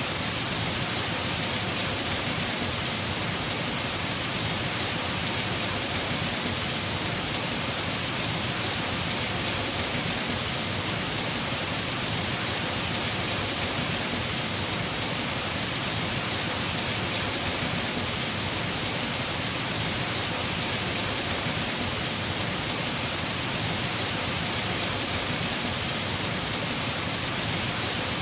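Heavy rain falling steadily on a house roof: an even, unbroken hiss of dense drops.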